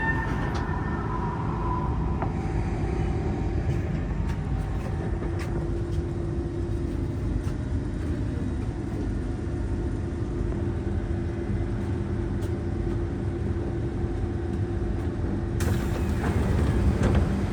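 Kawasaki C151 metro train running, heard from on board: steady rumble of wheels on rail with a constant motor whine. About fifteen and a half seconds in, a brighter hiss joins and the noise grows louder.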